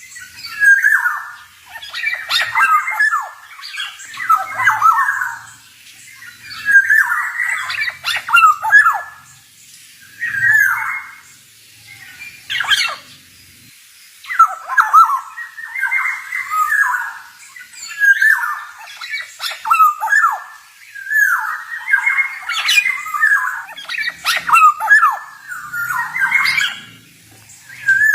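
Male black-naped oriole (kepodang) calling in loud, rapid phrases of harsh and fluty notes, one phrase after another with short pauses between them.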